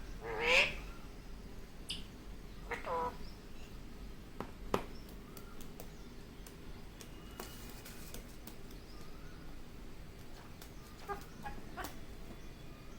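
Indian ringneck parakeet giving two loud, harsh calls, one right at the start and another about three seconds in, followed by a few sharp clicks and taps.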